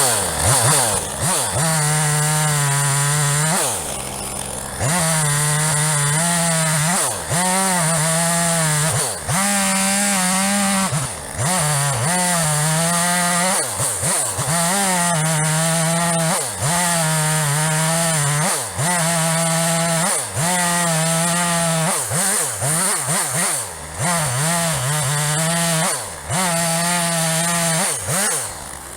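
Two-stroke chainsaw running at full throttle while cutting wood. Its revs dip briefly every second or two and pick straight back up, and near the end it drops off to a much quieter level.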